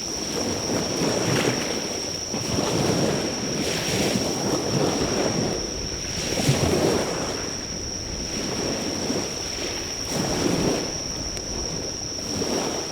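Surf washing on a beach in slow swells every few seconds, with a steady high-pitched insect call over it.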